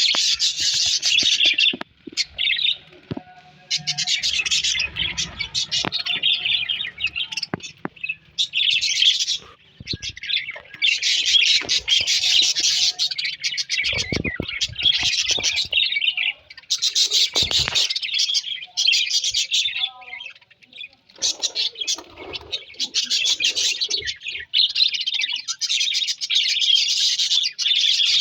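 Parrot chattering in repeated bouts of rapid, dense high-pitched chirps, each a few seconds long, broken by short pauses.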